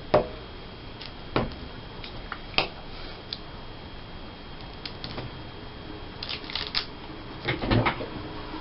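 Paper cutouts being handled on a tabletop: scattered light clicks and taps about a second apart, with short bursts of paper rustling about six and a half seconds in and again near the end.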